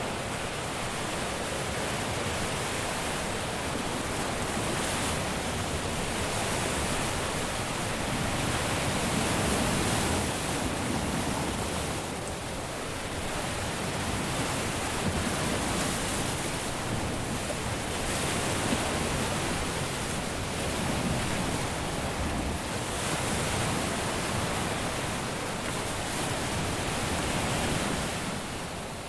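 Caribbean sea surf: waves breaking and washing up a beach, a continuous rushing wash that swells and eases every few seconds.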